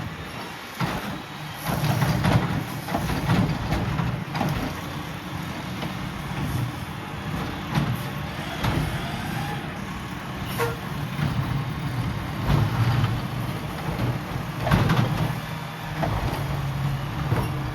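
Mack LR garbage truck with a McNeilus ZR side-loader body, its engine running steadily with sharp knocks and clanks every few seconds.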